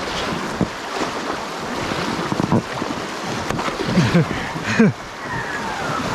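Shallow river water rushing around a packraft, with a few knocks and scrapes as the raft bumps against rocks in the low-water riffle.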